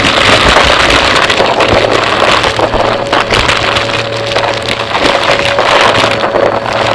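Vacuum cleaner running steadily close to the microphone: a constant motor hum with a held whine, under a dense crackling and rattling of debris being pulled through.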